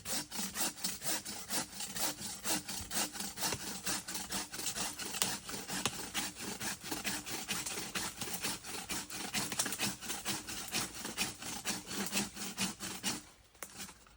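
Hand saw cutting through wood, probably a branch in overgrowth, in quick, steady back-and-forth strokes, several a second, that stop about 13 seconds in.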